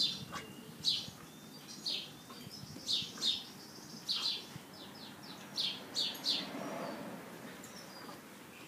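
Small bird chirping in short, high chirps, many in pairs, about one a second, with a quicker run of chirps around four to five seconds in.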